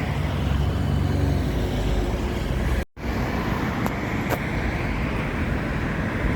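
Low, steady drone of a road vehicle's engine close by, which cuts out suddenly about three seconds in. General street traffic noise follows.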